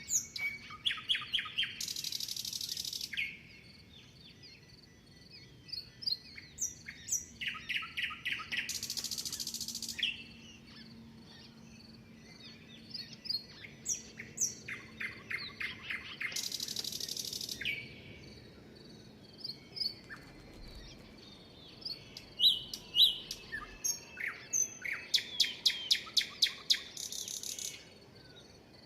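Songbirds singing. A phrase of rapid high chirps ends in a harsh buzz lasting about a second, and repeats about every seven seconds, with softer chirps between.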